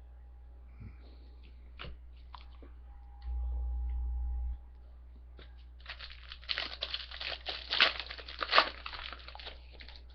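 Foil trading-card pack wrapper being torn open and crinkled: a dense run of crackling crinkles from about six seconds in. Before it come a few light clicks and a brief low hum.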